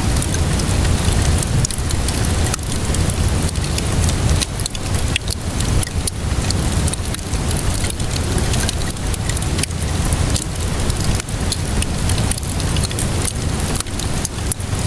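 Steady rainfall hiss with a low rumble underneath, mixed with the sharp irregular pops and crackles of a wood fire burning in a fireplace.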